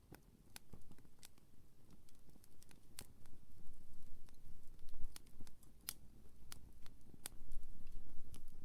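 Wood campfire crackling, with irregular sharp pops about once or twice a second over a low rumble that grows louder near the end.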